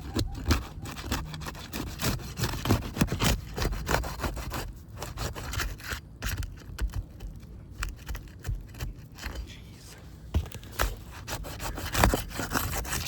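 A crowbar prying up asphalt roof shingles and breaking their seal strips: irregular scraping and crackling with many sharp clicks. It is busiest in the first few seconds, sparser in the middle and loud again near the end.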